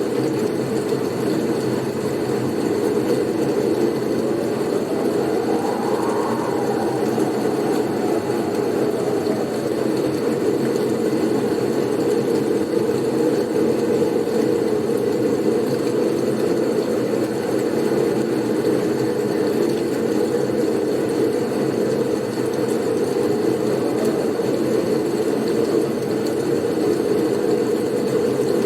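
Blizzard wind blowing steadily as a low rushing noise, with a faint whistle from a gust rising and falling in pitch about five seconds in.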